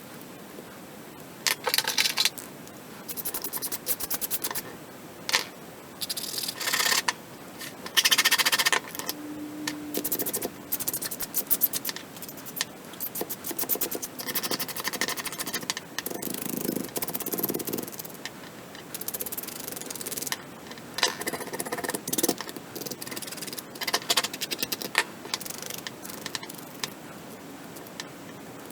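Intermittent scraping, scratching and clicking as small 3D-printed plastic parts are worked by hand, in short irregular bursts with a brief hum about ten seconds in.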